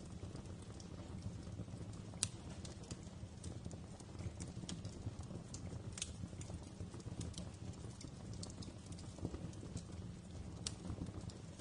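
Wood fire crackling in a fireplace: a steady low rumble with irregular sharp pops and snaps, the loudest about two seconds in.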